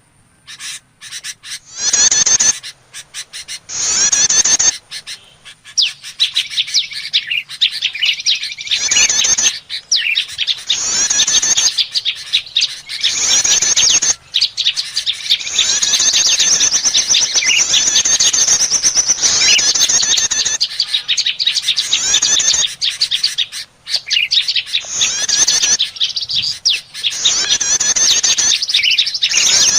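Prinias (prenjak) giving rapid, scolding chatter calls in repeated bursts, the agitated 'ribut' calls used as a lure to draw small birds in. The bursts begin about two seconds in and run almost unbroken through the second half, with short pauses.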